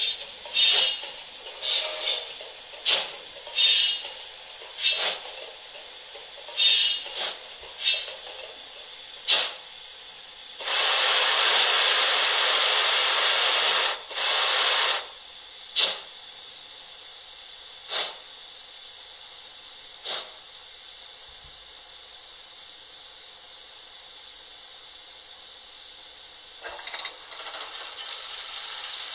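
Steam locomotive sounds from the model's ESU LokSound 5 sound decoder, played through its loudspeaker. First comes a run of short, sharp metallic clatters about a second apart. Then a long steam hiss lasts about three seconds, with a shorter hiss straight after. Single clicks follow over a low steady hiss.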